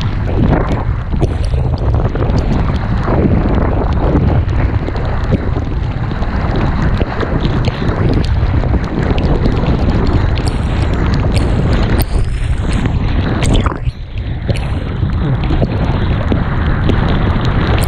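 Wind buffeting an action camera's microphone during kiteboarding, a loud rumbling roar with many short crackles and knocks from board and water through it. It drops briefly about fourteen seconds in.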